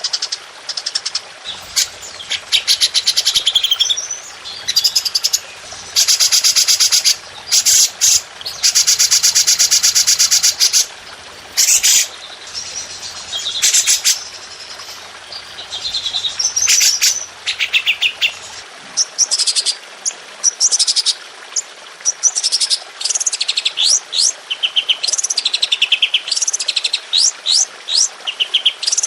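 Caged songbirds singing 'tembakan', fast shot-like bursts of high-pitched repeated notes and rapid trills, in dense phrases one after another.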